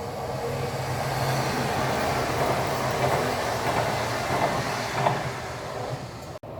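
Train running past on the line, a steady rumble of wheels on rails with a low hum, swelling in the middle and easing off, broken by a brief sudden dropout near the end.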